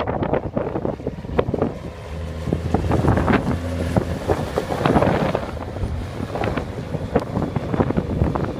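Wind buffeting the microphone in irregular gusts and crackles, over a diesel engine running steadily underneath. The engine hum comes through most clearly a couple of seconds in.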